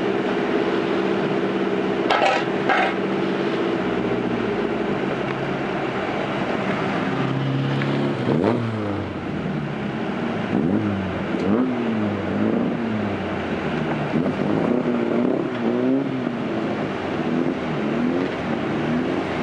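Fiat Grande Punto 1.9 Multijet diesel engine running under way. It is steady at first, then from about eight seconds in its pitch rises and falls repeatedly as it revs up and eases off.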